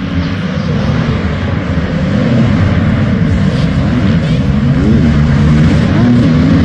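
Motocross dirt bike engines revving hard, the pitch repeatedly rising and falling as the riders work the throttle. The sound builds over the first couple of seconds, then stays loud.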